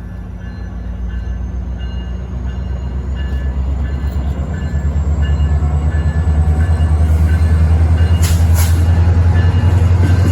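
Train approaching, its locomotive engine running with a deep, pulsing hum that grows steadily louder, over a thin whine rising slowly in pitch. Short tones repeat about twice a second, and there is a brief hiss about eight seconds in.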